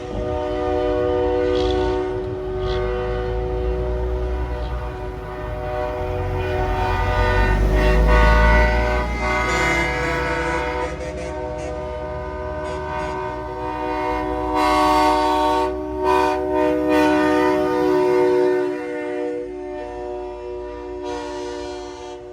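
Semi-truck air horn blowing long, chord-like blasts that are held through most of the stretch, with the low rumble of a heavy truck engine swelling as it passes about eight seconds in.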